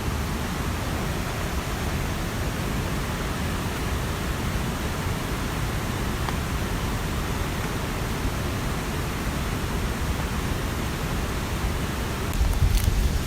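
Steady rushing noise of water, from a mountain stream and rain in the forest. Near the end, louder low rumbling with sharp patters starts.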